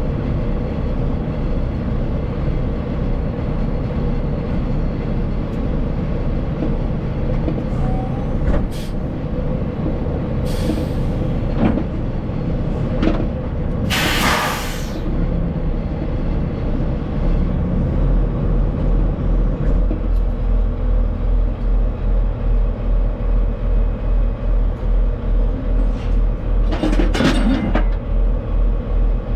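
Heavy truck running, with short hisses of air, the longest about 14 seconds in. In the last stretch a low throb pulses about twice a second.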